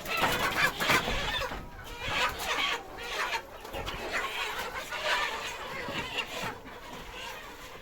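A flock of laying hens calling over one another in a dense, continuous chorus, loudest in the first second.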